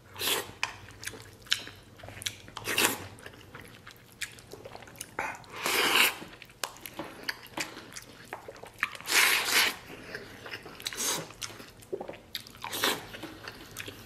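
Close-up chewing of mouthfuls of rice with braised pork knuckle and broth, eaten by spoon: many small mouth clicks and smacks, with several louder wet bursts a couple of seconds apart.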